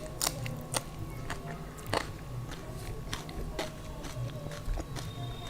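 Close-miked chewing of daal, rice and raw cucumber, with a few sharp, crisp bites standing out among softer mouth sounds.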